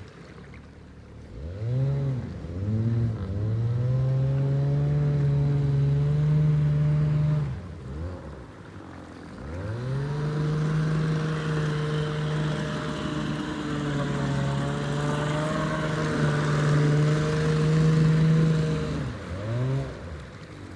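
Outboard motor on a jon boat being throttled up: two short revs, then it climbs and holds steady, eases off about seven seconds in, revs up again and holds for about nine seconds, then drops back near the end. The long-stored motor is running well under throttle.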